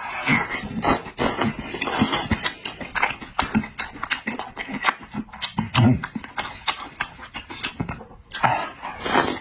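Close-up chewing and lip-smacking on a mouthful of meat: a rapid, irregular run of wet clicks and smacks.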